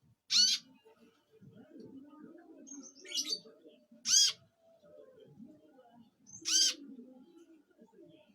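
Purple-throated sunbird giving short, sharp, high-pitched calls, four in all, spaced one to two and a half seconds apart. These are the bird's characteristic 'shot' calls.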